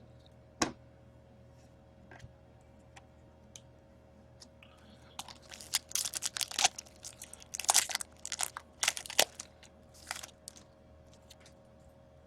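A foil trading-card pack wrapper crinkling and tearing in bursts as cards are handled, after a single sharp click about half a second in.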